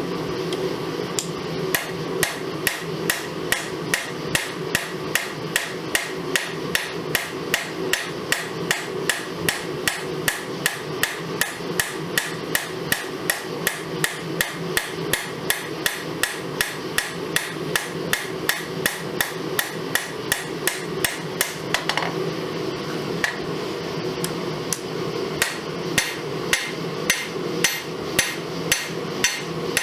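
Hand hammer striking leaf-spring steel on an anvil in steady forging blows, about three a second, with a short break a little after the middle.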